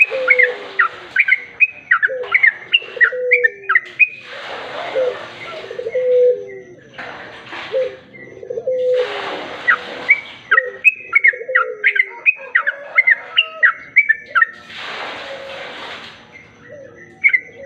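Yellow-vented bulbul calling in quick runs of short chirpy notes, with several bursts of rushing hiss lasting about a second each between the runs.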